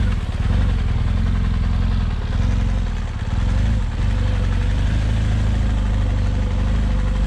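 BMW adventure motorcycle's engine running at low, steady revs while riding slowly, with a few brief dips as the throttle eases off between about two and four seconds in.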